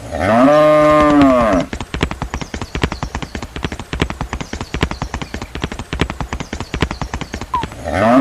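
A cow moos once, one long call that rises and falls in pitch. It is followed by a fast, uneven run of clopping clicks.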